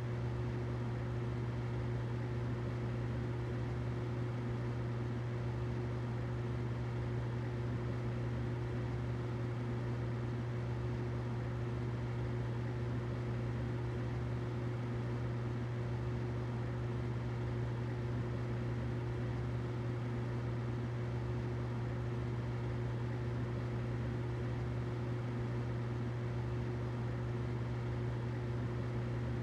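Humidifier running: a steady low hum with a fainter, higher tone over an even hiss.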